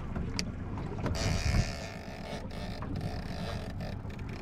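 Small jon boat at sea: a steady low hum with a rush of wind and water. There is a sharp click about half a second in and a brief louder surge around a second and a half in.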